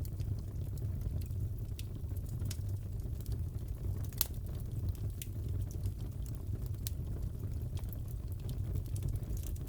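Fireplace crackling: a steady low rumble of the burning fire with scattered sharp pops and snaps, the loudest about four seconds in.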